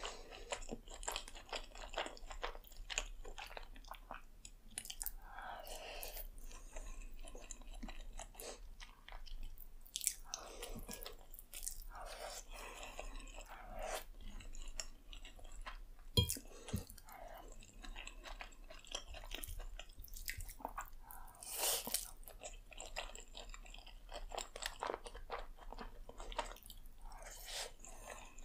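Close-miked chewing of creamy Alfredo spaghetti: a steady run of mouth clicks and smacks with short moist smears of sound between them. One sharper knock comes just past halfway.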